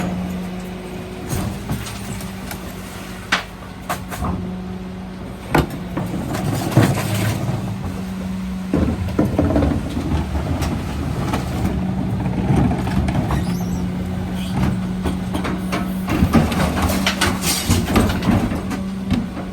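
Mercedes-Benz Econic refuse truck running with a steady low hum, broken by scattered sharp knocks and bangs and two longer stretches of clatter, the first about halfway through and the second near the end.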